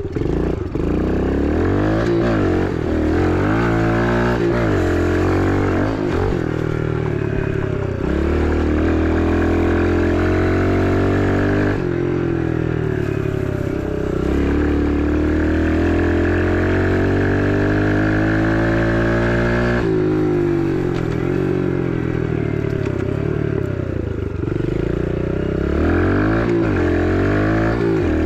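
Kawasaki KLX110 pit bike's single-cylinder four-stroke engine being ridden, its revs climbing and falling again and again as the throttle is opened and closed, with several sharp drops in pitch.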